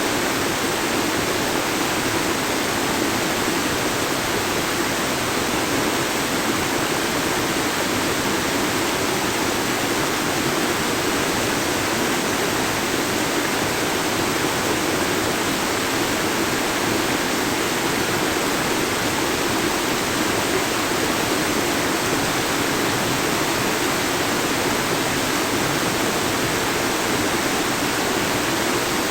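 Steady, unbroken rush of running water, like a river or stream flowing.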